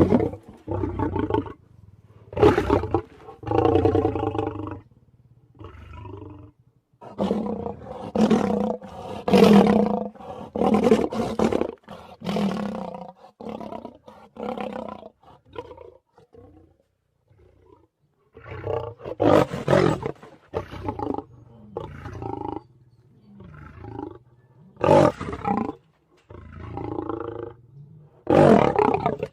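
A run of big-cat roar and growl sound effects made for a mountain lion character, one after another with short gaps between them. There is a lull of about two seconds a little past the middle, and the roars near the start and end are the loudest.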